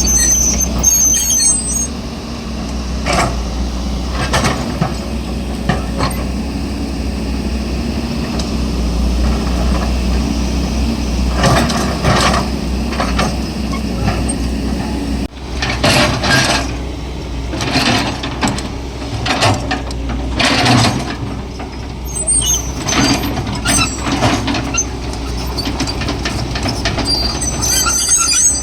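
Heavy excavator's diesel engine running under load while its steel bucket scrapes and clanks on rubble and broken road material, which spills into a dump truck bed. High squeaks come about a second in and again near the end.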